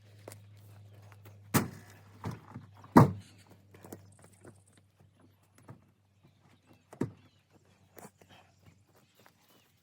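Heavy log rounds of firewood thudding as they are loaded. There are about five solid thuds, the loudest about three seconds in, with lighter knocks and footsteps between.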